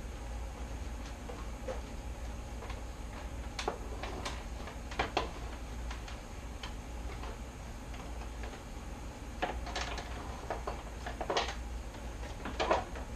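Light clicks and knocks from hands working on a motorcycle's plastic rear fairing, a few at a time and irregularly spaced, over a steady low hum.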